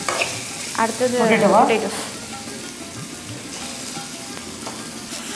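Chopped onion, green chilli and curry leaves sizzling in hot oil in an aluminium kadai, with a steel spoon stirring and scraping the pan. A brief voice is heard about a second in.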